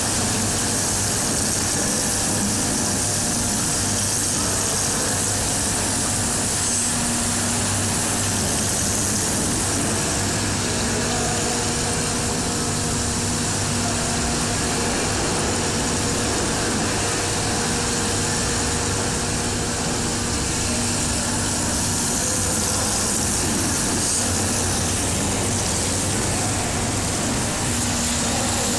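Compressor running steadily with a grinding noise from its head, the fault the sound is the sign of, over a constant low hum.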